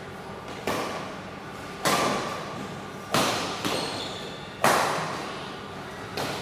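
Badminton rackets striking the shuttlecock in a rally: four sharp hits roughly a second and a half apart, each followed by a short echo, and a fainter fifth hit near the end.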